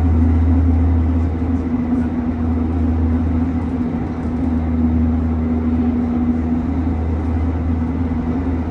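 Gyeonggang Line electric multiple-unit train heard from inside the passenger car while running between stations: a steady low rumble with a steady hum above it.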